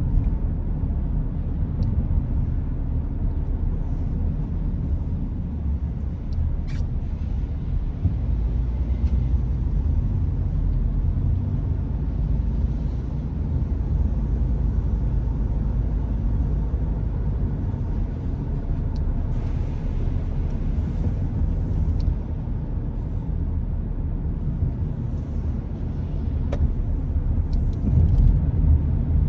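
Car driving along a road: a steady low rumble of road and engine noise, with a couple of faint clicks and a short stretch of extra hiss about two-thirds of the way through.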